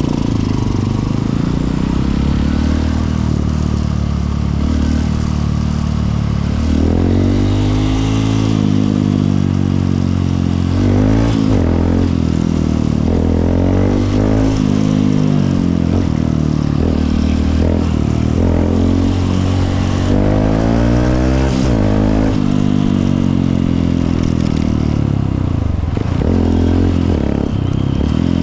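Honda CRF150L's single-cylinder four-stroke engine under way, its pitch rising and falling again and again as the bike accelerates and shifts through the gears.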